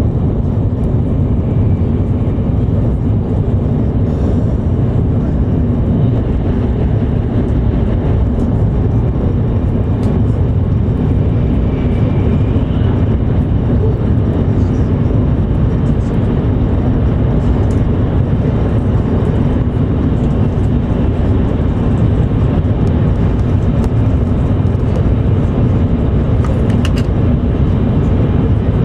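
Running noise inside the cabin of an E7 series Shinkansen travelling at speed: a steady, even low rumble that holds at one level throughout.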